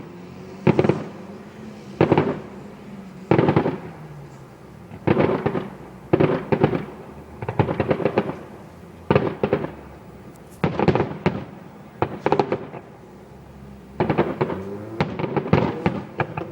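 Fireworks display: a steady run of loud aerial shell bangs, about one every second or so, some coming in quick crackling clusters.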